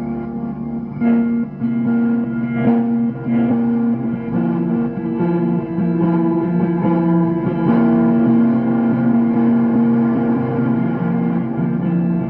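Ambient, shoegaze-style guitar jam: effects-laden guitar playing sustained, slowly changing notes, with picked attacks.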